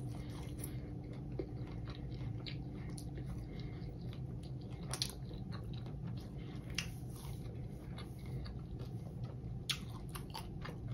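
Close-miked chewing of a mouthful of fried hot Cheetos-crusted king crab leg, with scattered short crunches and wet mouth clicks.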